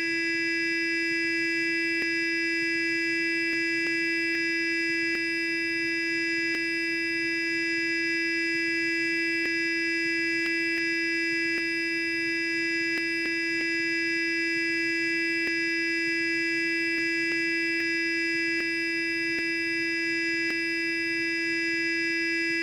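Sonic toothbrush buzzing steadily, a constant even hum with a bright, many-overtoned edge that does not change.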